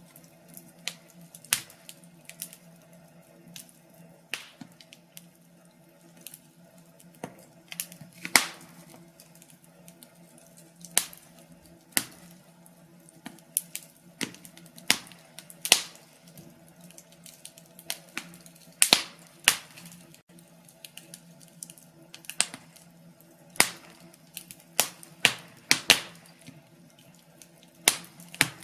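Wood fire in a fireplace crackling: irregular sharp pops and snaps, some much louder than others, over a faint steady hum.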